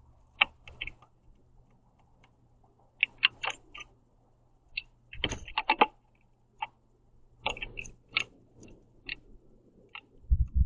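Birds pecking at seeds on a platform feeder: irregular sharp taps and cracks of beaks on the tray and on sunflower seed shells, coming in small clusters.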